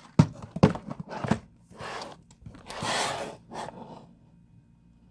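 A cardboard kit box being handled and turned: a few sharp knocks in the first second and a half, then several scraping, rubbing sounds, and little after about four seconds in.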